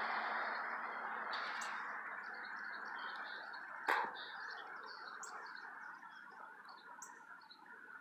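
Small birds chirping, many short high calls, over a background rush that slowly fades away. A single sharp click about four seconds in.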